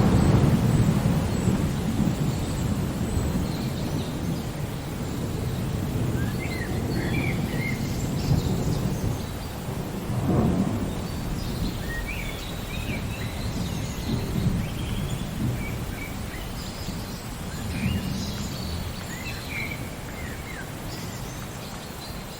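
Steady rain with low rolling thunder, the rumble loudest at the start, then fading and swelling again a couple of times. A few short bird chirps come through now and then.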